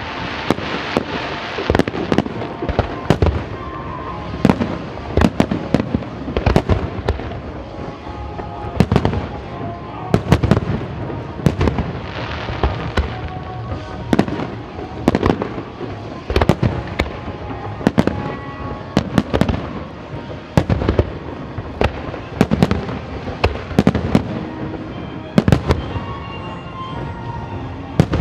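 Aerial firework shells bursting in a continuous run of sharp, irregularly spaced bangs, about one to three a second and sometimes in quick clusters.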